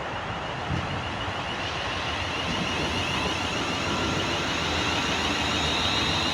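Class 350 Desiro electric multiple unit running through the station, a steady rumble that grows slowly louder, with a high whine coming up from about halfway.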